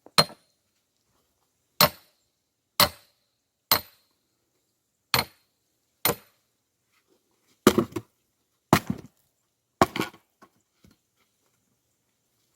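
Axe chopping and splitting larch firewood: about nine sharp strikes, roughly one a second. The last three, near the end, are heavier and longer.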